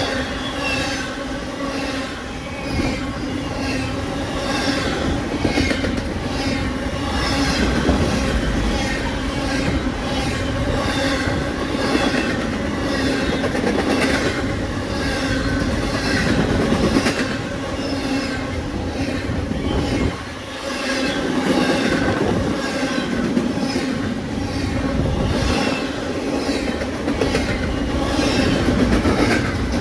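A railroad train rolling past, its steel wheels clattering on the rail joints and squealing on the rails, with a steady, continuous din.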